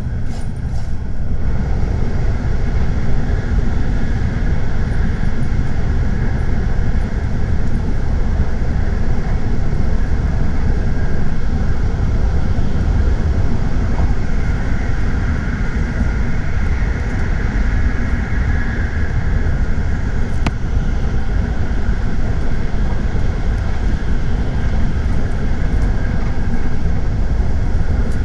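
Tokaido Shinkansen train running at speed, a steady low rumble of wheels, track and air noise heard from inside the passenger car, with a single faint tick about two-thirds of the way through.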